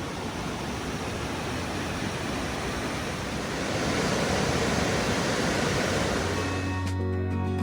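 Steady rushing noise of the river and falls in the gorge below, growing a little louder about halfway through. Music comes in near the end.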